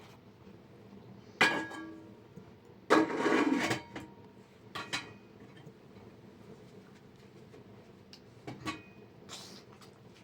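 Pots and dishes being handled: a few separate clinks and knocks, one with a short metallic ring about a second and a half in, and a longer scraping rub about three seconds in.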